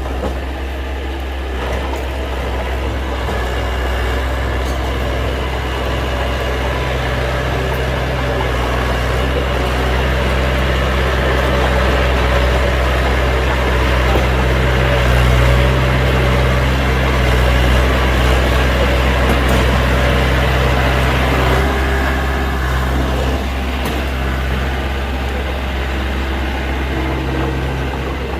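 Heavy diesel engine of construction machinery running steadily. It builds in loudness through the middle and eases off about two-thirds of the way in.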